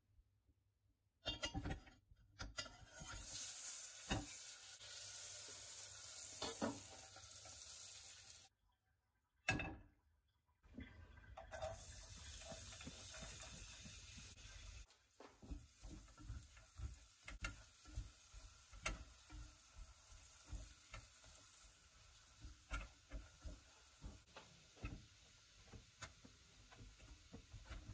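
Butter and then finely chopped onion sizzling in a stainless steel saucepan, stirred with a silicone spatula that gives repeated light taps and scrapes against the pan.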